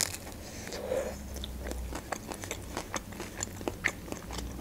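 A person bites into a shawarma rolled in thin lavash and chews it close up, with many small irregular clicks from the mouth.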